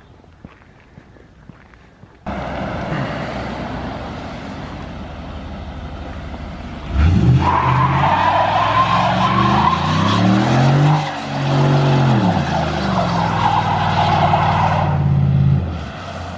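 Ford F-150 pickup doing a one-wheel-peel burnout: the engine comes up about two seconds in, then revs hard about seven seconds in with a loud tire squeal, the revs dipping and climbing again midway before cutting off near the end.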